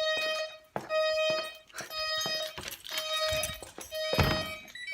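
Intruder alarm keypad beeping at one steady pitch, about one to two beeps a second: the entry warning that sounds after the door is opened, until the alarm is disarmed. Knocks and a thump about four seconds in.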